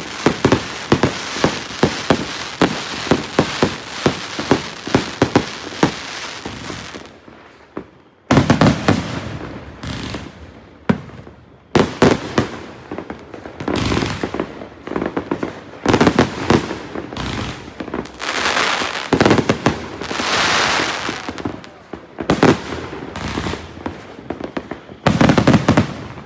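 A 200-shot consumer fireworks cake firing: a fast string of shots with crackling for about seven seconds, a brief pause, then single loud bursts each trailed by crackling, ending in a rapid volley near the end.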